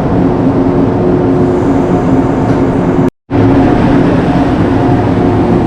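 Kurofune electric train running, a steady rolling rumble with a constant hum over it. The sound breaks off abruptly for a split second about three seconds in, then resumes unchanged.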